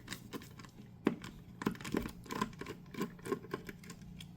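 T10 Torx screwdriver turning out the screw that holds an Onity door lock's battery compartment: about a dozen small, irregular clicks and ticks, starting about a second in.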